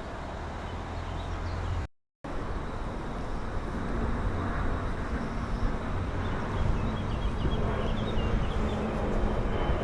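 Train running past with a steady rumble and a low hum, growing louder after the sound drops out for a moment about two seconds in.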